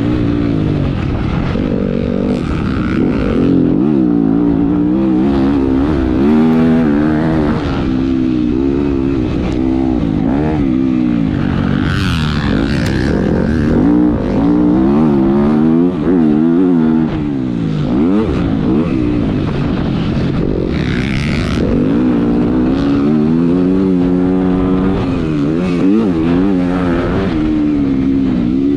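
Motocross dirt bike engine ridden hard on track, its pitch repeatedly climbing and dropping every second or two as the throttle is opened and closed. Two brief harsher, hissier bursts come about twelve and twenty-one seconds in.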